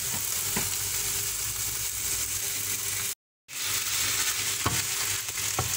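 Turmeric-marinated chicken pieces sizzling as they fry with onions in a non-stick pan, stirred and scraped with a wooden spatula. The sound cuts out for a moment about three seconds in.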